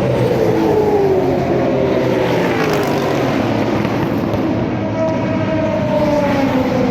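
Racing car engines running at speed, their pitch dropping as a car goes by. Another car comes through about five seconds in.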